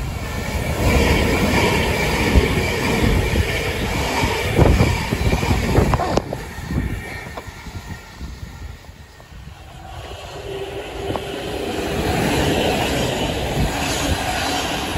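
Electric multiple-unit trains on the line: a Southern Class 377 runs along with a rumble, sharp wheel clicks over the rail joints and a thin high whine. After a quieter spell about eight seconds in, a Thameslink Class 700 runs past close by with a rising, steady rumble and hum.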